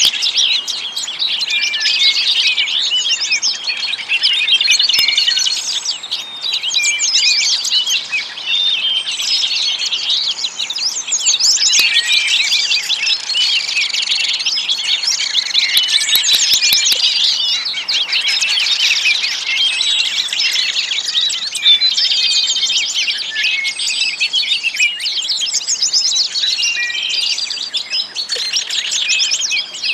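A dense chorus of many small songbirds chirping, trilling and singing over one another without a break.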